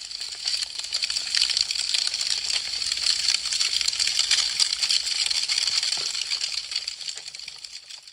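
Wood fire crackling, a dense run of small snaps and pops. It swells in over the first second and fades out near the end.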